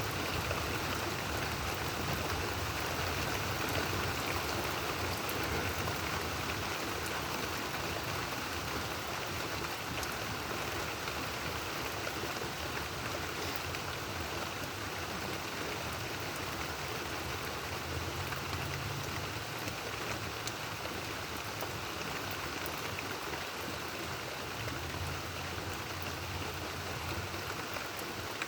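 Rain falling steadily in a thunderstorm, an even hiss throughout, with a low rumble swelling twice in the second half.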